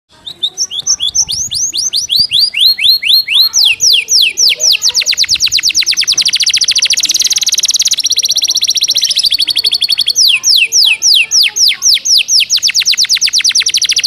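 Domestic canary singing a fast, tightly packed song of repeated downward-sweeping whistled notes, several a second at first. In the middle it runs into a very rapid trill, then goes back to spaced sweeps. The song is filled with phrases learned from the gelatik batu (cinereous tit).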